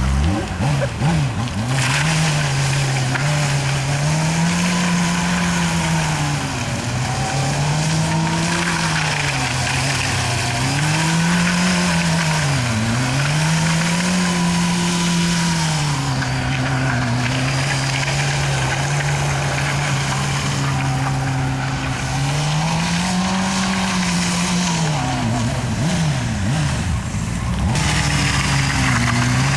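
Honda CBR600RR sportbike's inline-four engine held up in the revs during a circle burnout, the pitch swelling and dipping every couple of seconds, with the spinning rear tyre squealing and hissing against the pavement. The tyre noise stops near the end and the engine runs on alone.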